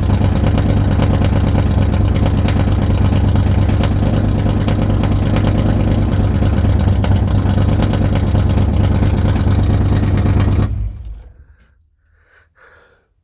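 Ford 351 Windsor small-block V8 running steadily on a cold start, then switched off about eleven seconds in, the sound dying away within a second.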